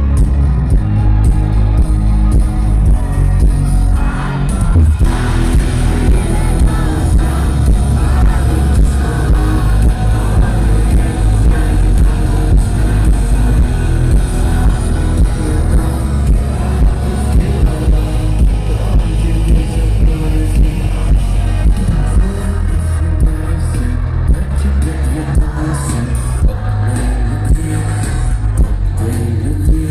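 Live rock concert: a band playing loud, heavy-bassed rock with a singer, heard from within the audience.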